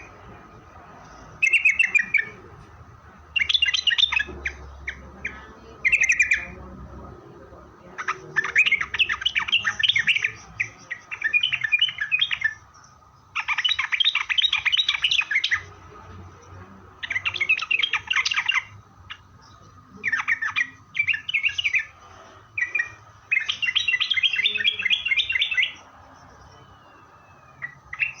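Yellow-vented bulbul (trucukan) singing: about a dozen bubbly, chattering phrases of one to two seconds each, repeated with short pauses, over a faint steady tone.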